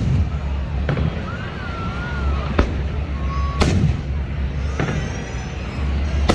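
Fireworks going off: a series of sharp bangs, roughly one every second, the loudest about halfway through, over a steady low rumble.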